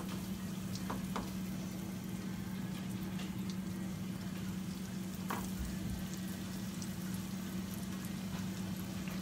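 Breaded pork chops sizzling steadily as they fry in hot olive oil in a frying pan. A steady low hum runs underneath, with a couple of faint clicks.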